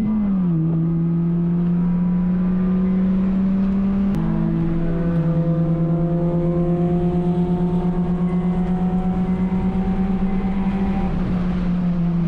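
Honda Fit's four-cylinder engine running hard at high revs on a race track. The pitch steps down at upshifts just after the start and again about four seconds in, then climbs slowly as the car pulls through the gear.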